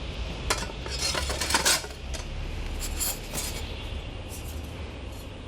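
Metal parts of a fire pit stand clinking and clicking together as they are fitted, with a cluster of sharp clinks in the first two seconds and a few more about three seconds in, over a steady low hum.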